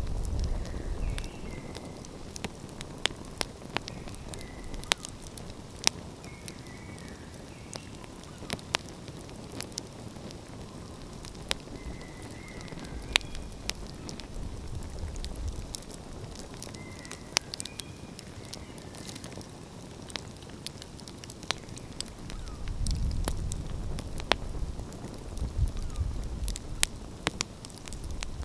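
Wood fire crackling and popping, with sharp irregular snaps. A low rumble swells up a few times underneath.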